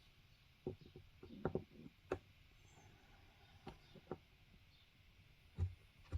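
Scattered light knocks and clicks from handling a polystone statue and its packaging: about seven short taps over six seconds, with a quick cluster about a second and a half in and a louder thud near the end.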